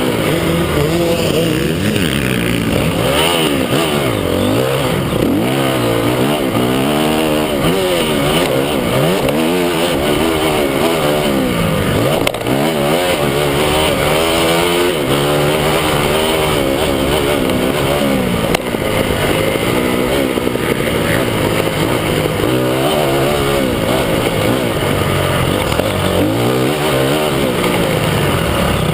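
Several motocross bikes' engines revving up and down around the track, their overlapping pitches rising and falling as riders accelerate and shift.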